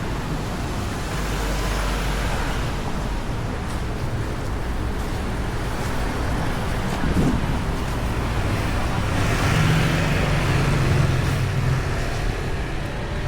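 Street traffic: steady road noise, with a motor vehicle's engine passing close from about nine seconds in and fading again.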